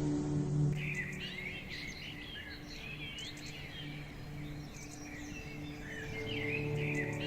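Several birds chirping and twittering together in quick, overlapping calls, over a soft, steady ambient music drone. The birdsong comes in about a second in.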